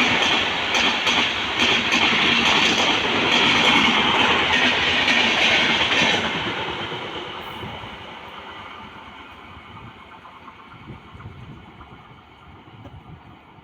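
A train passing close at speed, its wheels clattering over the rail joints, then fading steadily as it moves away from about six seconds in.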